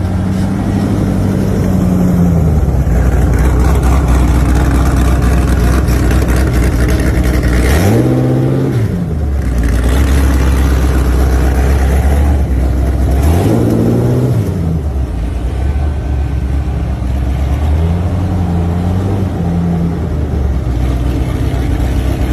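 Muscle car engine idling with a deep, steady note, revved twice: the pitch climbs and falls back about eight seconds in and again about thirteen seconds in.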